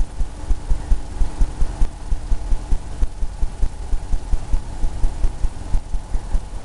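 Paintbrush dabbing rapidly against a stretched canvas, a steady run of soft low thumps about four or five times a second.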